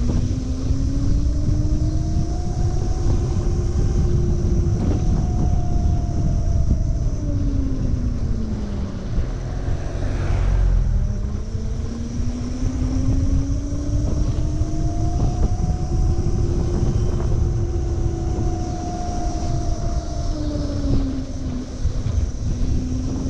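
Electric moped riding at speed, with wind rushing over the microphone. Its motor whine climbs in pitch as it speeds up, holds, then drops as it slows, twice over.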